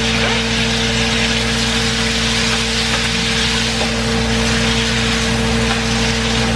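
Chopped vegetables sizzling steadily in hot oil in a frying pan as they are stirred, with a steady low hum underneath.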